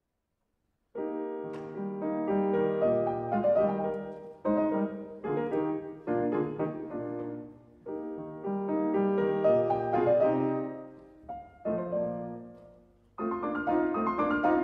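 Piano music, starting about a second in, played in phrases of chords that swell and die away.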